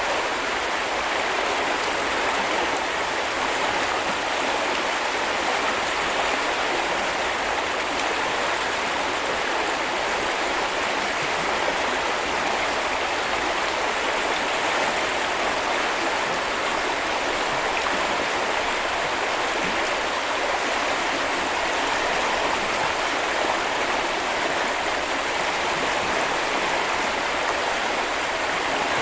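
Flowing river water rushing steadily over stones, an even unbroken wash of noise with no change in level.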